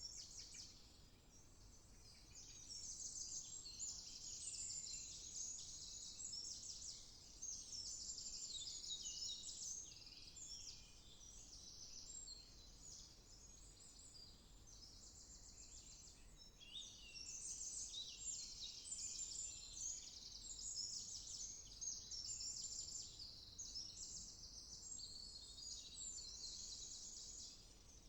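Several songbirds singing at once in a dense woodland chorus of rapid high trills and chirps, easing off briefly near the start and for a few seconds midway.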